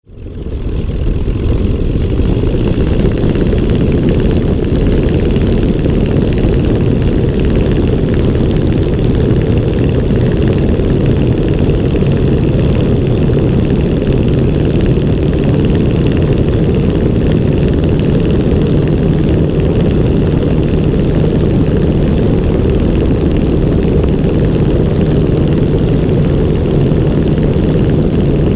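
Pietenpol Aircamper's engine and propeller at takeoff power, heard from a GoPro mounted on the aircraft: a loud, steady, deep drone. A steady low hum grows clearer about halfway through.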